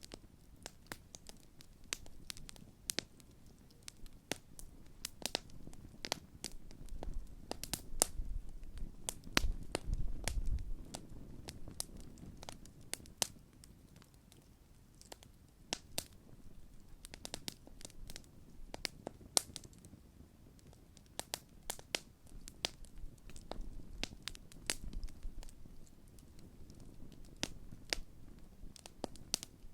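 A newly lit large wood campfire crackling, with sharp irregular pops and snaps throughout. A low rumble swells twice, most strongly just before the middle and again later.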